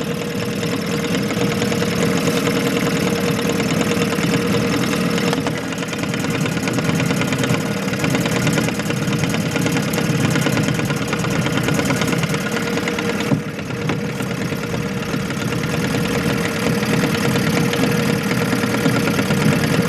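An engine running steadily at idle, a constant hum with an even noise around it.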